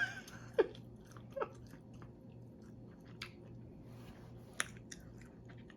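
A person chewing food close to the microphone, with a few scattered short, wet mouth clicks.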